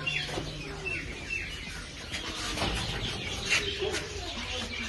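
A flock of budgerigars chirping and chattering, many short overlapping calls.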